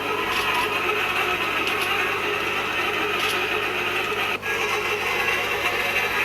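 Manual hot tapping machine cutting into a pipe: a steady mechanical grinding of the cutter with faint clicks, broken off very briefly about four seconds in.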